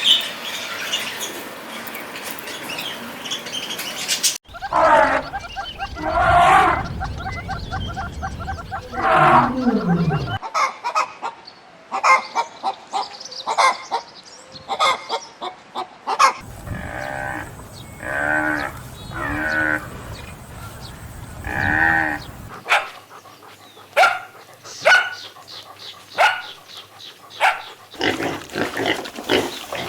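Farm animals calling, in a string of short clips that change abruptly every few seconds; about two-thirds of the way through, four or five pitched calls of about a second each come in a row.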